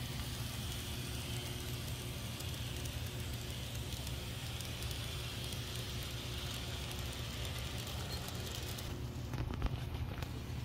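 Atlas N scale GP38-2 model diesel locomotive running on its track: a quiet, steady motor hum under a hiss, with a cluster of small clicks about nine seconds in.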